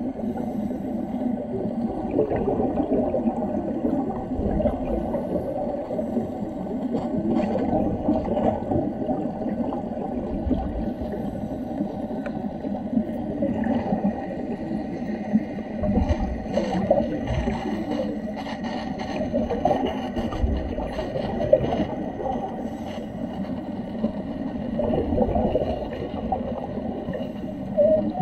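Muffled underwater sound: continuous bubbling and gurgling with scattered low thumps.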